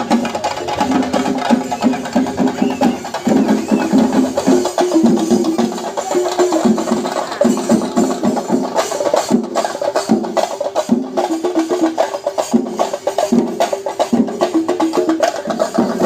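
Loud percussion-led music: fast drumming with sharp clicking strokes over held pitched tones.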